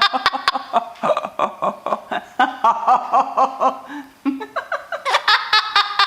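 Rapid, choppy chuckling laughter, with a few sharp clicks near the start.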